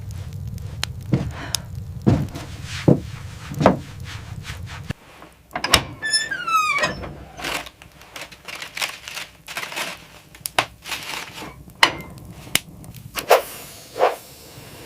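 A series of sharp knocks and thunks, with a falling squeal like a creak about six seconds in.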